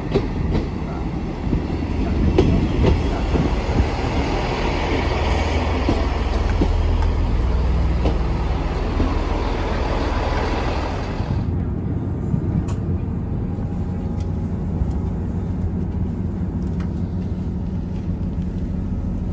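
A Transport for Wales diesel multiple unit moving along a station platform, its engine and wheels loud with a rising note near the end of the pass. About halfway through this cuts to the steady low rumble heard on board a moving train.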